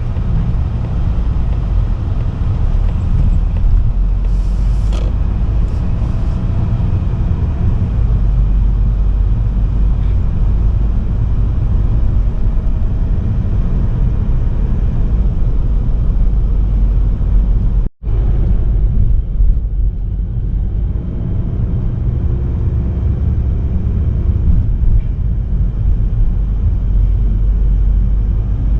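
A motor vehicle driving, with a steady low road and engine rumble. The sound drops out abruptly for a split second about two-thirds of the way through.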